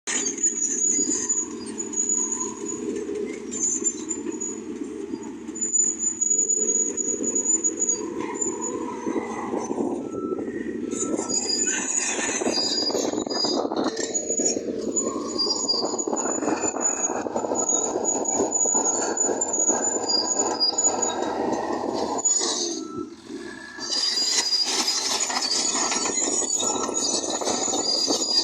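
Bulldozer at work: its diesel engine running under load with a high, thin squeal that comes and goes, typical of steel crawler tracks. The sound drops briefly near the end, then resumes.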